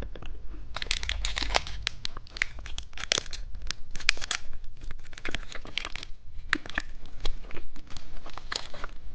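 Plastic candy wrapper crinkling and tearing as a packet of sweets is opened and handled, with many sharp, irregular crackles.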